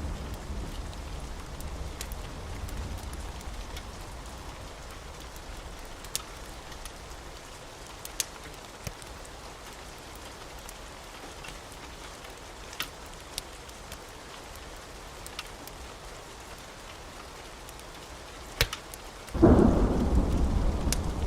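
Steady rain with a few sharp clicks and a low thunder rumble dying away in the first few seconds. Near the end, a loud thunderclap breaks in suddenly and rolls on.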